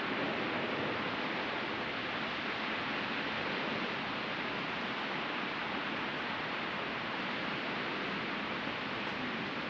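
Ocean surf washing onto the shore in a steady, unbroken hiss, with no single wave standing out.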